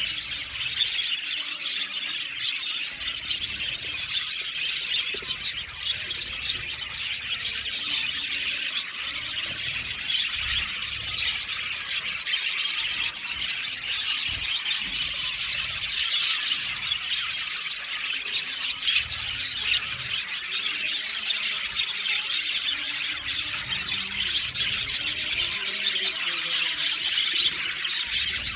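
A flock of budgerigars chattering, with many overlapping chirps and squawks.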